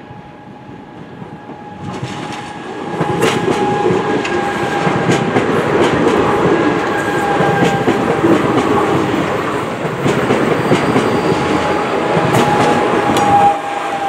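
Electric multiple-unit passenger train rolling past close by: a steady rumble of wheels on rail with many sharp clicks and a steady high tone over it. It builds up about two seconds in and drops off suddenly near the end.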